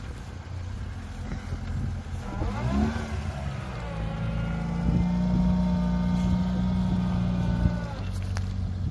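Off-road 4x4's engine revving up, then held at steady high revs under load for about four seconds before easing off near the end.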